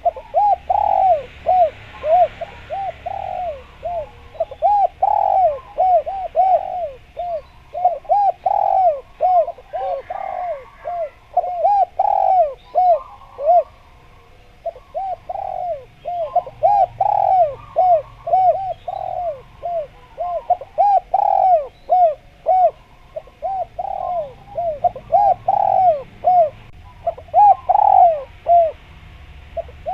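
Spotted dove (derkuku/tekukur) cooing over and over, a continuous run of short arched coo notes with hardly a break, the kind of call used as a lure for wild doves. Fainter high chirps sound behind it.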